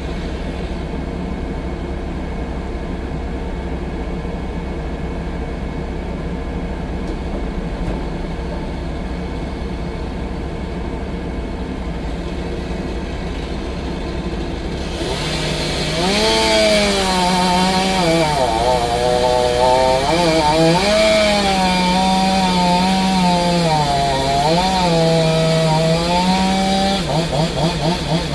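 A low engine hum runs steadily at first. About halfway in, a chainsaw comes in loud and cuts through wood, its engine pitch dipping and recovering as the chain bogs under load. Near the end it drops to a rapid pulsing.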